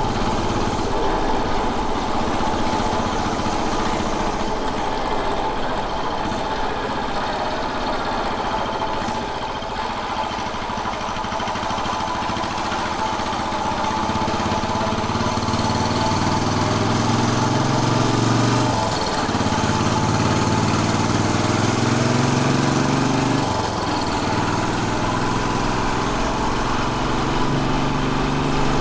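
Royal Enfield Bullet 500's air-cooled single-cylinder engine running under way. In the second half it picks up speed, its pitch rising and then dropping sharply twice as it shifts up through the gears.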